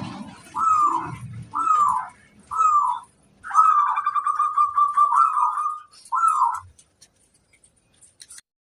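Zebra dove (perkutut) cooing: four short coos, then a long rolling trill held for about two seconds, then one more coo.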